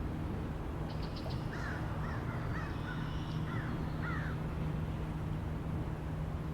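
A bird giving a quick run of about six short calls between one and four seconds in, over a steady low rumble.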